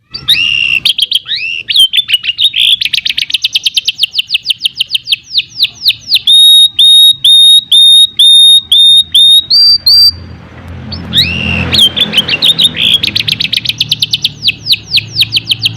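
Domestic canary singing a long song of rapid trills, each run a quick series of repeated sweeping notes, with a brief pause about ten seconds in before the trills resume.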